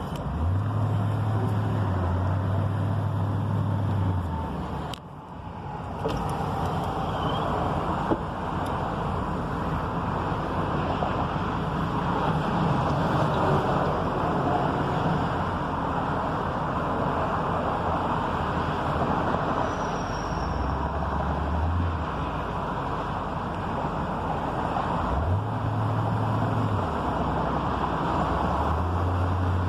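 Steady road traffic noise, with a low rumble that comes and goes and a brief lull about five seconds in.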